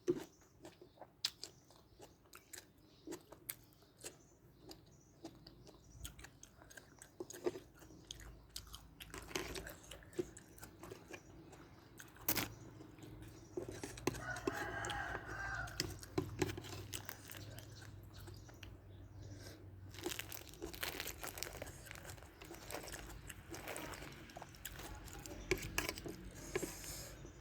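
A person chewing and crunching food close to the microphone, with many short sharp crunches and wet mouth clicks. A brief pitched sound comes about halfway through.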